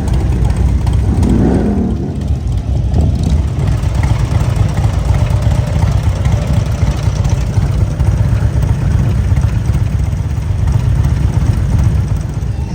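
A vehicle engine running steadily, with a continuous low rumble and road or wind noise over it.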